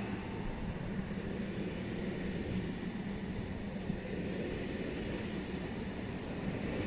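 ETR521 'Rock' electric multiple unit running at the station with a steady low hum over a rumbling noise.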